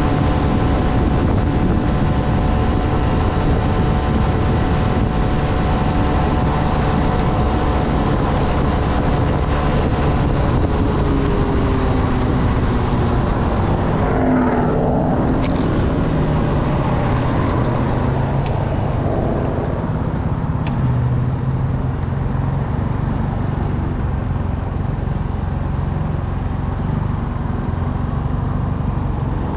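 Motorcycle on the move, its engine running under a steady rush of wind noise; about halfway through the engine's pitch drops, then it settles lower.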